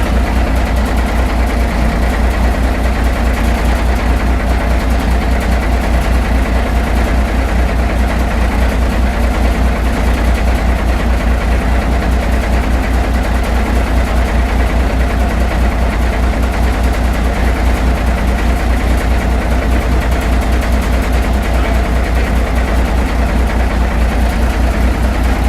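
An engine idling steadily with a deep, evenly pulsing rumble.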